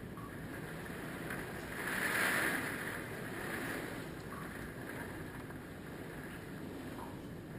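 Hurricane Michael's wind and choppy lake water rushing in gusts, with the strongest swell about two seconds in.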